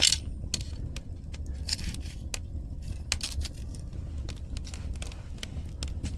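Firewood burning in an agungi, a traditional Korean ondol firebox: irregular sharp crackles and pops over a steady low rumble, with a louder hissing burst right at the start.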